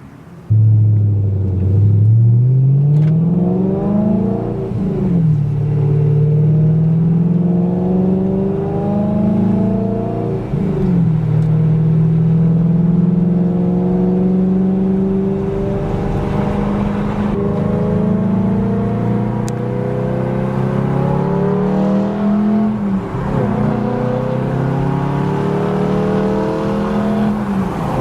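BMW E92 M3's 4.0-litre V8, straight-piped with resonator and muffler delete but catalytic converters kept, running loud. It comes in about half a second in and accelerates, its pitch climbing over several seconds and then dropping sharply with each upshift, about four times.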